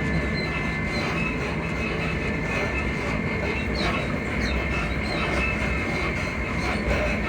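Class 334 electric multiple unit running at speed, heard from inside the carriage: a steady low rumble of wheels on rail with a faint steady high tone over it. A few short, high squeaks from the suspension come around four seconds in.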